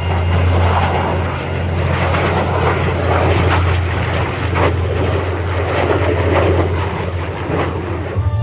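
Jet aircraft flying a display: a loud, steady rush of engine noise with a ragged crackle through it, cut off near the end.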